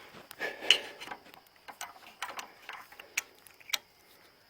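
Irregular light clicks and metallic taps of small parts and tools being handled, the loudest about a second in and again near the end.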